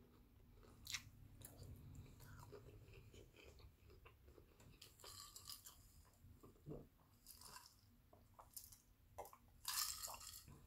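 Faint close-up chewing and mouth sounds, with scattered small clicks, then sips and swallows from a glass of water in the second half.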